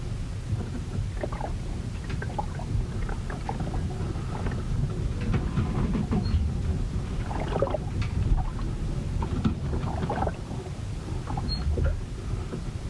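A ship in a storm: a steady low rumble of wind and water, with scattered short knocks and clicks throughout.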